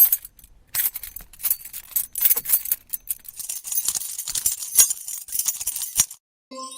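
Hard small objects clinking and jangling together in quick, irregular strikes, stopping about six seconds in. A short pitched chime sounds just before the end.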